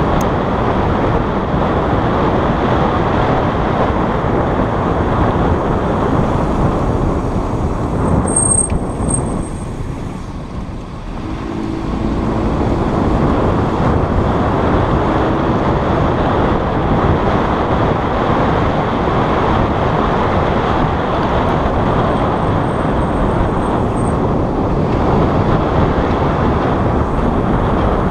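Audi RS3 sedan driving, with steady road and tyre noise that eases for a moment as the car slows about ten seconds in, then builds again. Brief thin, high-pitched squeals from the brakes as it slows, a clearer one around eight seconds in and fainter ones later.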